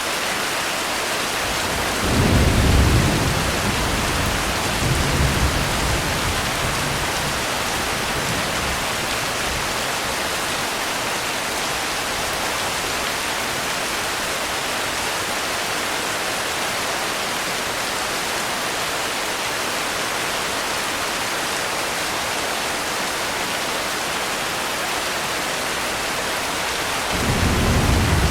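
Steady rain hissing, with low rolls of thunder rumbling about two seconds in, again around five seconds, and near the end.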